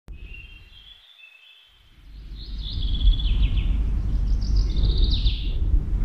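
Songbirds singing: faint short phrases at the start, then two louder trilled phrases about two and a half and four and a half seconds in. Beneath them a low rushing rumble swells from about two seconds in and stays loud.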